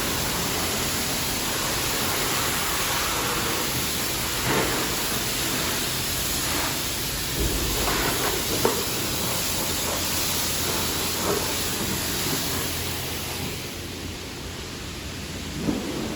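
High-pressure spray wand at a self-serve car wash blasting water onto a car, a steady loud hiss with a few small knocks, easing off about fourteen seconds in.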